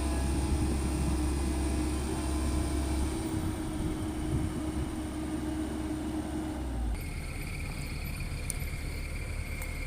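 Heavy diesel machinery running steadily with a low rumble; the sound changes abruptly about seven seconds in, when a steady high whine joins it.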